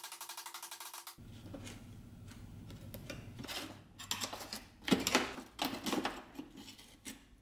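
Music with a quick beat cuts off about a second in. After it come a low hum and irregular clicks and clattering knocks of tools and parts being handled at a workbench, loudest about five to six seconds in.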